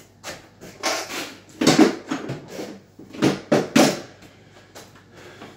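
A series of hard knocks and clatters of wood and tools during cabinet installation, about half a dozen separate hits, the loudest in a quick cluster of three a little past the middle.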